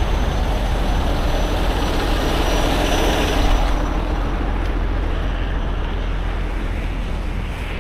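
Heavy truck running with a steady deep rumble and a dense wash of road and rain noise over it.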